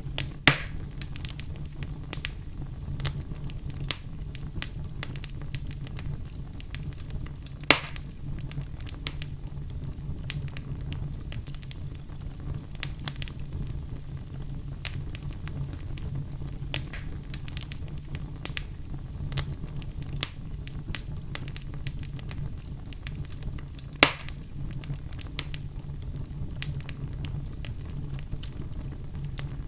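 Wood fire crackling in a fireplace: a steady low rumble of burning with frequent small crackles, and three louder sharp pops spread through it.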